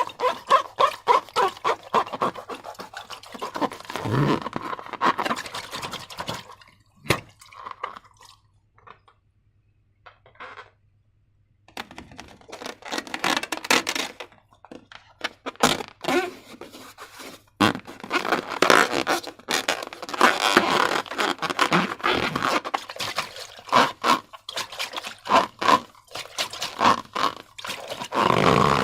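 Slime being handled and squished, making rapid wet clicks and crackles, with a pause of a few seconds about a third of the way in.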